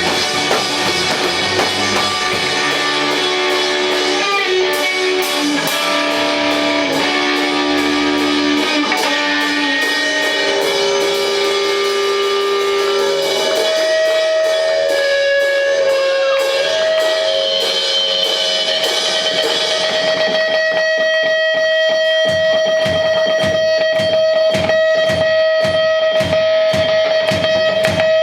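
Live rock band playing loudly, led by electric guitar over drums. The guitar holds long, bending notes, then about two-thirds of the way in settles on one high sustained note over a fast, even pulse.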